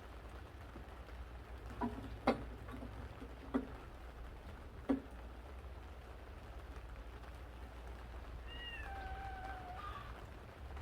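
A few sharp knocks in the first half, then a cat gives one drawn-out meow that falls and levels off, over a low steady hum.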